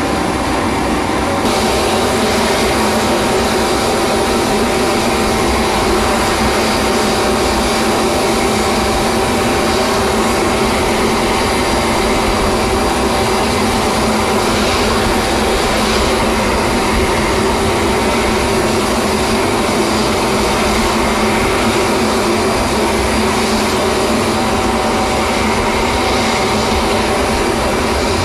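Steady, loud engine noise with a constant whine, growing brighter about a second and a half in.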